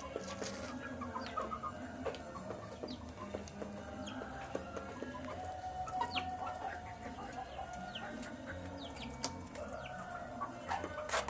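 Young chickens clucking and peeping as they feed, with many short high chirps and a few sharp knocks, the loudest near the end.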